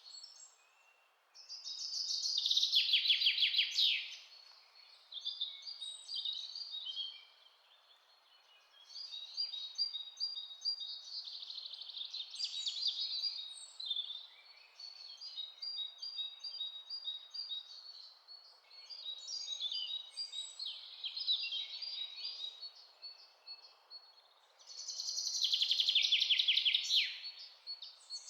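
Songbirds singing in a forest, in repeated chirping phrases a few seconds long with short pauses between them. A faint steady hiss runs beneath the song.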